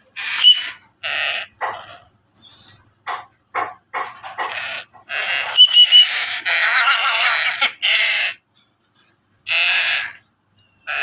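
Young crow calling harshly to be fed while hand-fed: a string of short, rasping squawks, with a longer run of calls about halfway through.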